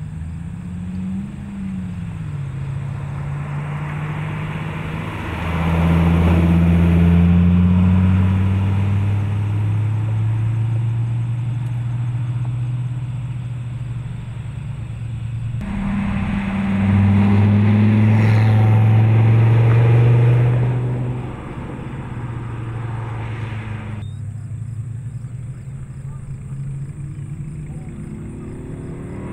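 2013 SRT Viper's V10 engine running under way, loudest in two stretches of harder pulling, about five and about sixteen seconds in.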